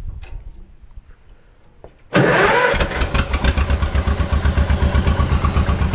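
Small farm tractor engine started a little over two seconds in: it fires up suddenly and settles into a steady idle with an even, pulsing beat.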